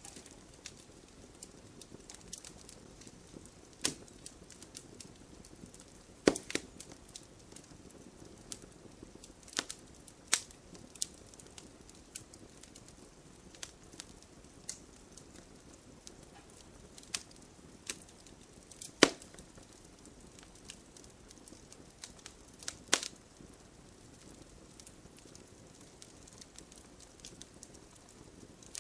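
Wood fire burning in a fireplace: a low steady hiss broken by irregular crackles and sharp pops. The loudest pops come about six, ten, nineteen and twenty-three seconds in.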